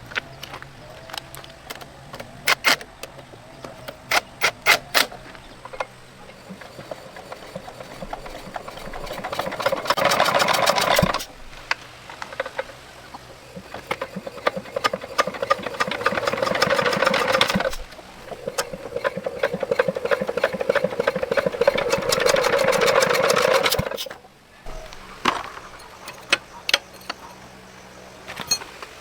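Scattered metallic clicks and knocks, then three bursts of rapid mechanical rattling lasting a few seconds each, the last the longest.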